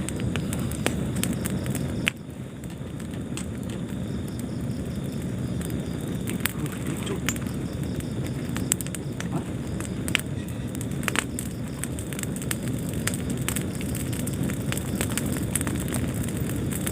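Wood fire burning in a fireplace: a steady low rumble of flames with frequent irregular crackles and pops. The level drops suddenly about two seconds in, then builds back up.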